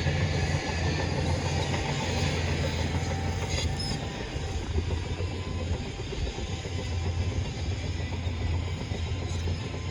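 Bulldozer's diesel engine running steadily with a deep low hum under a broad mechanical noise, the sound of the machine at work.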